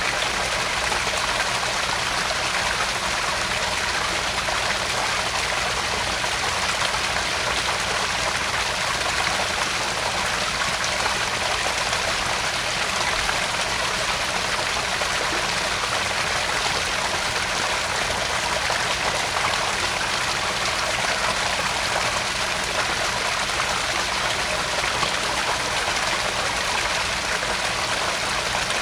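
Small garden pond waterfall splashing and trickling steadily into the pond, an even rushing hiss with no change.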